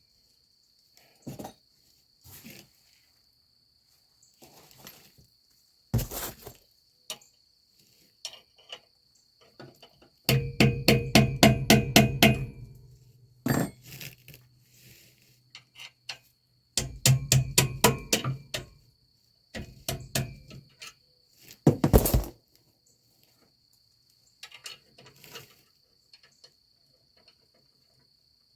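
Hand tools working on semi-trailer brake hardware: two bursts of rapid clicking, about six or seven a second with a low hum under them, as from a ratchet wrench being run on a bolt, among scattered single metal knocks and clanks.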